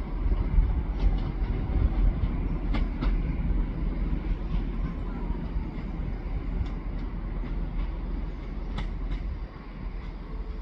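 A train running along the track: a steady low rumble with scattered clicks from the wheels over the rails. It dies down about nine and a half seconds in.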